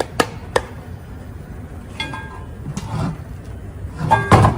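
Workshop handling noise from caliper parts and tools: two sharp clicks, some lighter clinking and rustle, then a louder clatter of knocks with a brief metallic ring near the end.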